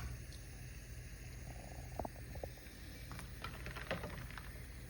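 A few faint clicks and light knocks, made as hard-boiled eggs are lifted out of their pot of hot water and set down, over a low steady hum.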